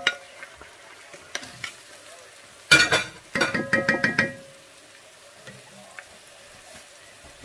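Food sizzling in hot oil in a Dutch oven as meat goes in with the onion and carrot. A few light knocks come first, then a loud metallic clatter about three seconds in that leaves a brief ringing.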